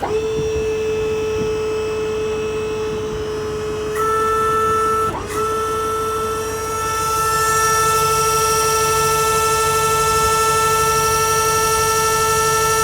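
Electric-hydraulic jack pump on a gooseneck trailer running with a steady whine as it works the jacks. About four seconds in it gets louder and higher tones join, there is a brief dip a second later, and then it runs on steadily.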